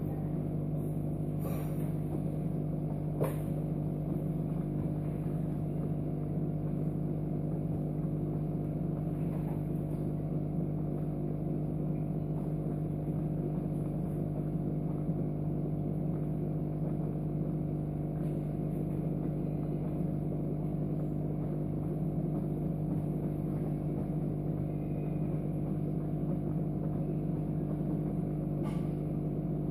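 A steady electrical machine hum, low and unchanging, made of several held tones, with a few faint clicks over it.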